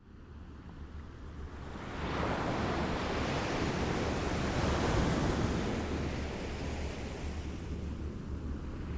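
Small waves lapping on a shore: the wash dies away at the start, then one wave builds from about two seconds in, peaks midway and eases off, over a steady low rumble.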